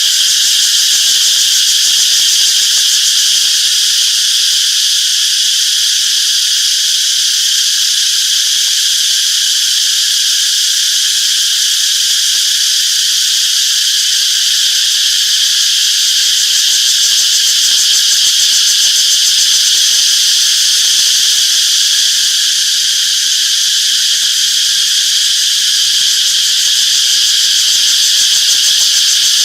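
Chorus of cicadas droning steadily at a high pitch, without a break.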